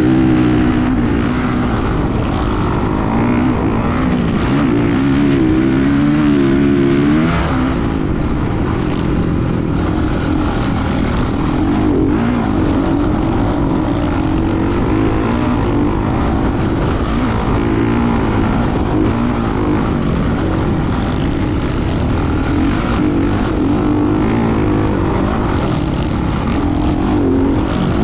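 Motocross dirt bike engine running and revving, its pitch rising and falling continually.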